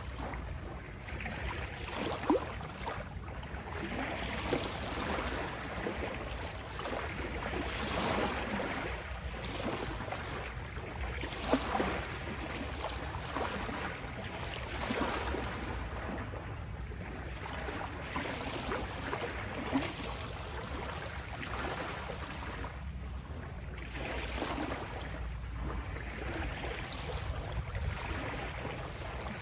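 Small sea waves lapping and rippling ashore: a continuous wash that swells and ebbs every few seconds, with a few brief sharper splashes.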